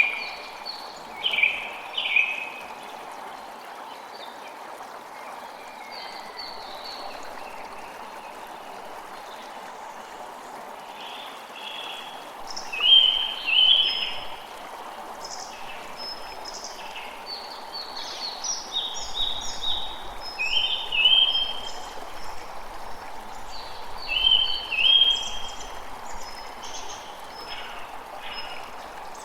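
Steady rush of running stream water, with birds chirping in clusters of short, quick high notes over it, near the start, around the middle and through much of the second half.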